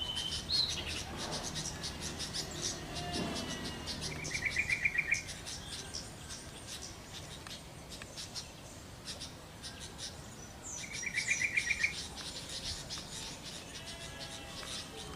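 Yellow-vented bulbul calling: two short, rapid bubbly phrases, about five and eleven seconds in, with a few softer gliding notes between them, over a steady background of quick high chirps.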